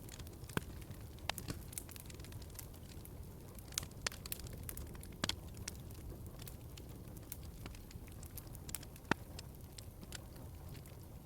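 Wood fire crackling in a fireplace: a low steady rumble of flames with scattered sharp pops and snaps, the loudest about nine seconds in.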